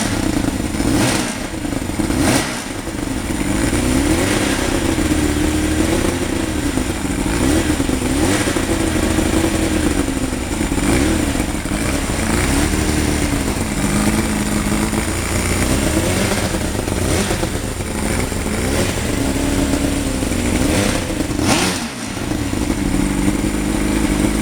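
Mercury two-stroke outboard engine in a homebuilt racing sidecar, running after a cold start. It is blipped up and down over and over, so its note rises and falls in repeated swells.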